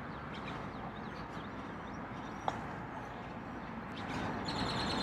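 Outdoor ambience with faint bird chirps over a steady background hiss, a single click about two and a half seconds in, and a high rhythmic buzzing that sets in near the end.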